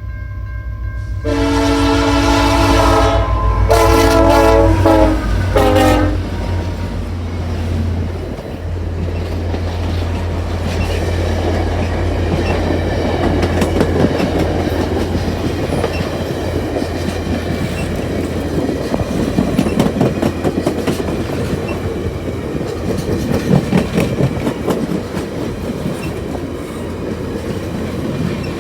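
A diesel locomotive's multi-chime air horn sounds a few blasts, two long and then a short one, over the low drone of the engine. Then the train rolls past, its wheels clacking steadily over the rail joints.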